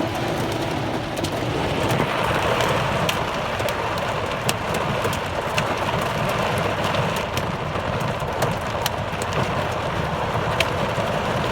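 Heavy rain and hail drumming on a vehicle's roof and windows, heard from inside: a steady downpour hiss with frequent sharp, irregular ticks of hailstones striking.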